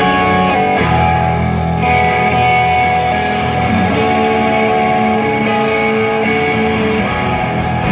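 Rock band playing: electric guitars ring out held chords and single notes over a low sustained bass, with no drums.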